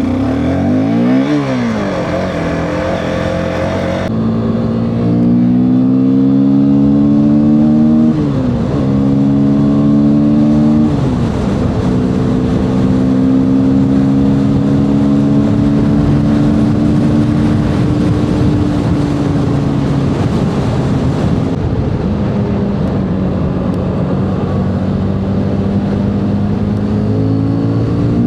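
Motorcycle engine heard from the rider's seat, pulling away: revs climb steeply at the start, rise and fall back through several gear changes in the first dozen seconds, then hold a steady pitch while cruising, climbing again near the end.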